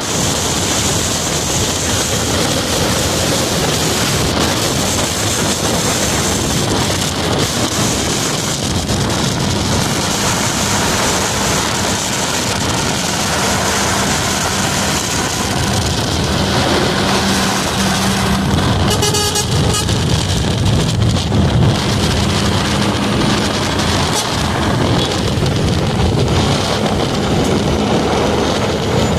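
Steady road-vehicle noise: engine and road/wind noise of traffic on a highway, with a brief horn-like tone about two-thirds of the way in.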